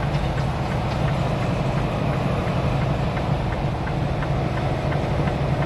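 Steady low drone of a semi truck's diesel engine and road noise, heard inside the cab while it climbs a grade with tire chains on. Faint ticks repeat at about three or four a second.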